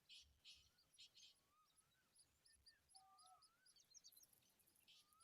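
Faint bird sounds: a rapid series of thin, high chirps at about three or four a second, a few short hissy bursts, and several distant whistled notes that rise and fall.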